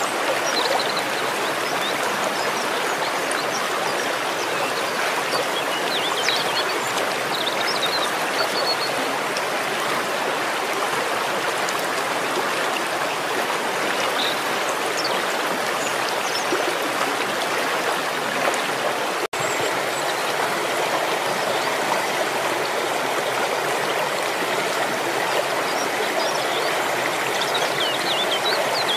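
Waterfall water rushing steadily, with faint short high chirps now and then and a momentary break about two-thirds of the way in.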